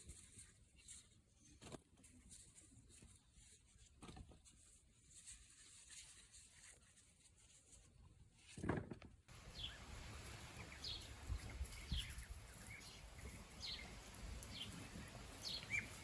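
Quiet outdoor ambience with a few faint knocks and one louder thump. Then, after an abrupt change of background about nine seconds in, a small bird calls in short, falling chirps about once a second.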